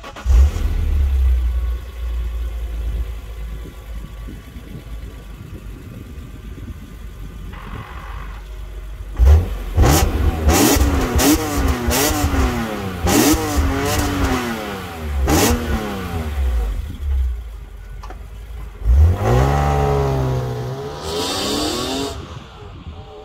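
2002 BMW E46 M3's 3.2-litre S54 straight-six, fitted with an Eventuri intake and stock exhaust, heard from behind at the tailpipes. It flares loudly just after the start and settles to idle. From about nine to sixteen seconds in it is blipped through a series of quick revs, then pulls away under hard acceleration and fades as the car drives off.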